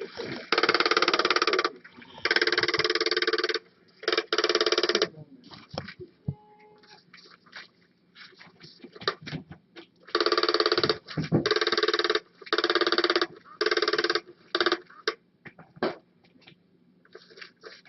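Battery-powered Undercover Mouse cat toy running, its motor and gears buzzing in stop-and-go bursts of about a second each. There are three bursts, then a few seconds of small clicks, then five more bursts in quicker succession.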